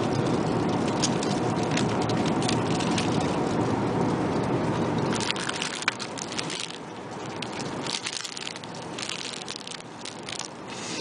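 Handling of an in-flight meal tray: rustling packaging and clicking metal cutlery over the steady hum of an Airbus A380 cabin. About halfway through, the cabin hum drops away and the clicks and crinkles stand out more.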